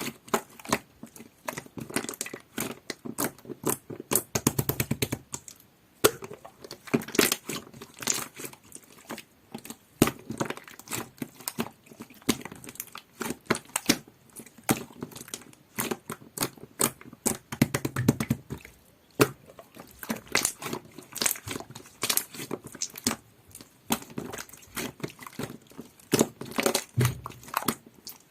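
Clear jelly-textured slime being squished, pressed and stretched by hand, giving a dense run of quick irregular clicks and pops, with a few heavier presses now and then.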